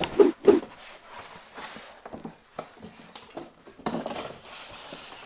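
Cardboard boxes and packaging being handled and moved on a table: two dull thumps right at the start, then scattered light knocks, clicks and rustling.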